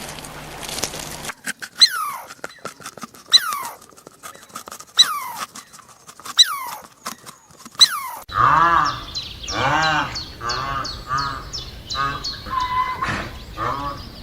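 Animal calls in two clips. First comes a call repeated about every second and a half, each one sliding down in pitch, with clicks between. Then a different call follows, repeated quickly, about twice a second.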